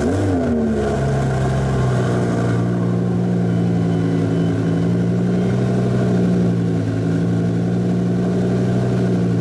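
Heffner twin-turbo Lamborghini Gallardo V10 just after a cold start, after about a month unused. The revs fall off the start-up flare in the first second or two and settle into a steady idle.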